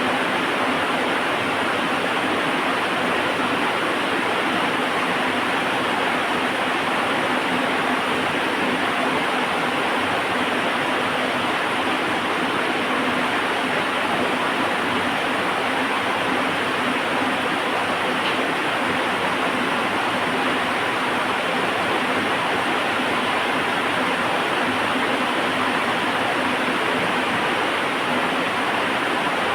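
Heavy rain falling, a steady, even hiss without let-up.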